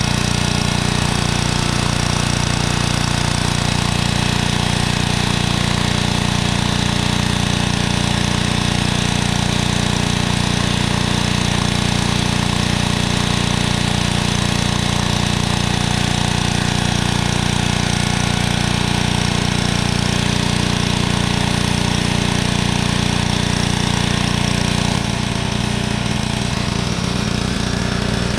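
An engine running steadily under load, with a steady change in its sound about 25 seconds in.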